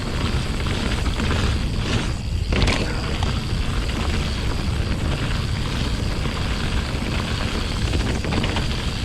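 Ride noise from a mountain bike on rough trail: steady, loud wind rumble on the camera microphone, with the tyres rolling and the bike rattling over the ground. There is a sharper clatter about two and a half seconds in.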